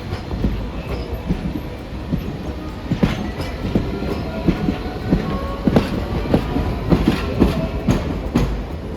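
Streetcar rolling through the station at low speed, its wheels knocking irregularly over rail joints and points over a steady rumble, with a faint thin wheel squeal in places.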